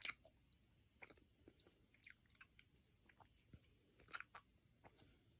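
Faint wet clicks and smacks of a person chewing a soft chewy candy with the mouth closed.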